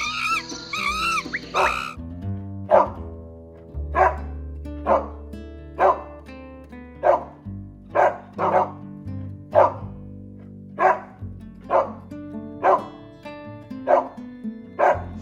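A dog barking again and again, about one bark a second, over background music. High chirping calls are heard in the first two seconds.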